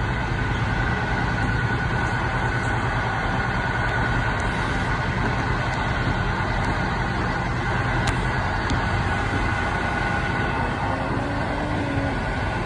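Electric passenger train running at speed, heard from inside the front cab: a steady rumble of wheels on the track with a faint, even high whine and a few light clicks.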